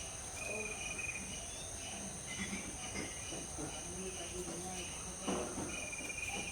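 Tropical woodland morning ambience: a steady high insect drone runs throughout, with short bird chirps and whistles over it.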